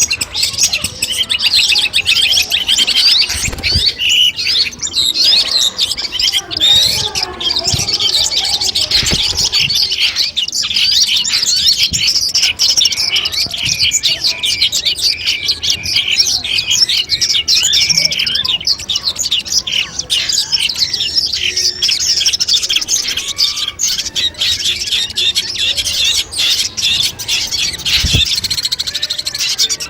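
Long-tailed shrike (cendet) singing a fast, unbroken chattering song of rapid, varied high notes.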